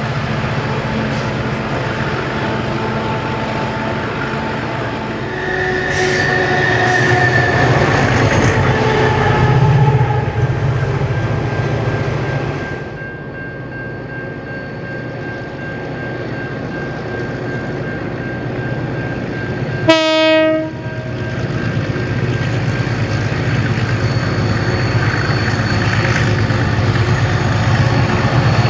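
Loaded grain hopper wagons rolling past with rumbling wheel noise and some wheel squeal. Then diesel locomotives working up a grade toward a level crossing, giving one short horn blast about two-thirds of the way through. The engines grow louder as they approach near the end.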